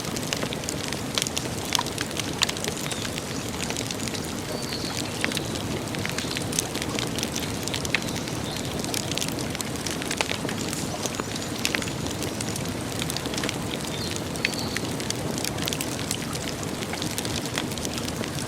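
Wood campfire crackling steadily, with frequent sharp snaps and pops scattered over a continuous low hiss.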